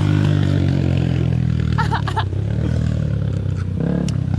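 Dirt bike engine running steadily after being revved.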